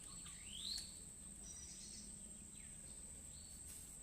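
Outdoor ambience: a bird gives a rising whistled call about half a second in, with a few fainter chirps later, over a steady high-pitched insect drone.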